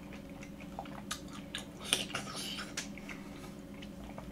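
A person chewing a mouthful of soft food close to the microphone: irregular wet squishing and smacking with small mouth clicks, busiest around the middle.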